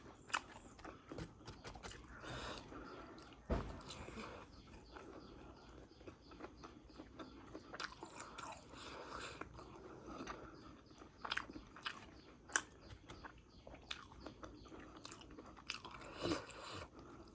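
Close-up chewing and biting of crunchy fried momos, with crisp crunches every second or so.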